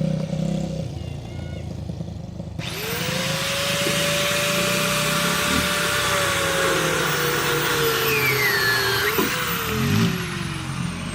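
A power tool, most likely an angle grinder, starts about two and a half seconds in and cuts through steel exhaust pipe to remove the muffler. Its motor whine sinks slowly in pitch as the cut loads it.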